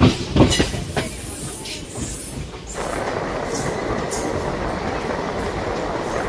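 Electric express passenger train running on the track. Its wheels clack over rail joints in the first second or so, then from about three seconds in it gives way to a steady rushing noise.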